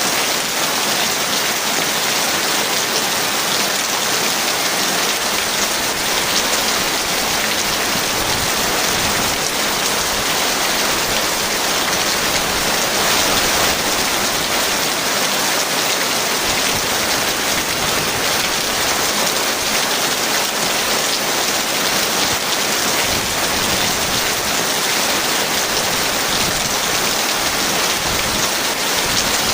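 Heavy rain falling steadily, an even hiss that keeps up without a break.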